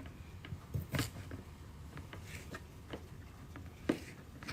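Kitchen knife cutting food on a cutting board: a scatter of irregular light taps and clicks, with a sharper knock about a second in and another near the end.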